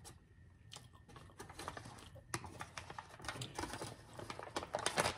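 Close-miked crunching and chewing of crispy fried food: a quick, irregular run of crackling clicks that grows busier after a second or so.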